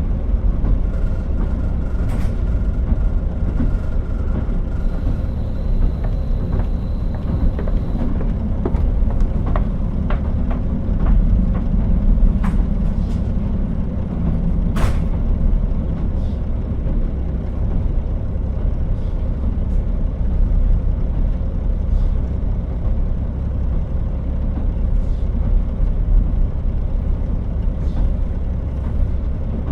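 Running sound of a KiHa 40 diesel railcar on the move: a steady low rumble of engine and wheels on the rails, with scattered light clicks and knocks.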